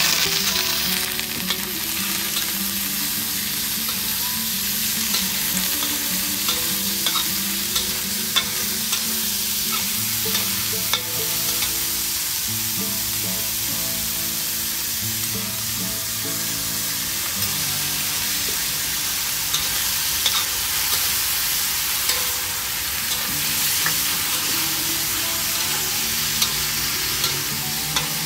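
Sliced beef sizzling as it fries in a hot metal wok, loudest right at the start, while a metal spatula stirs and scrapes it with scattered sharp clicks against the pan.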